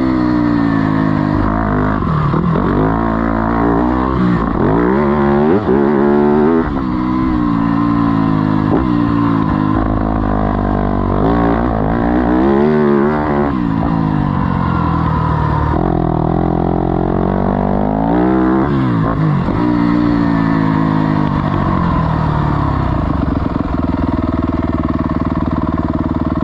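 Yamaha YZ250F four-stroke motocross bike engine being ridden hard, revving up and down over and over, its pitch climbing and dropping every few seconds as the throttle opens and closes and the gears change.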